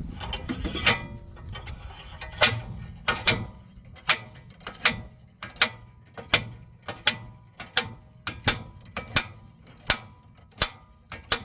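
Ratchet wrench turning the forcing screw of a wheel bearing press tool, clicking in even strokes about 0.7 s apart, as the hub is pressed out of the pressed-in wheel bearing.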